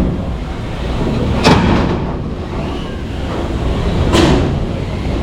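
Two sharp metal impacts from hobbyweight combat robots colliding, about two and a half seconds apart, over steady background noise.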